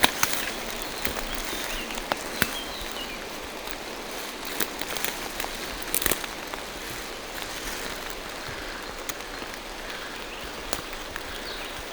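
Steady rain falling through a forest, an even hiss with scattered sharp drips and patters of drops close by. Faint short high bird chirps about three seconds in.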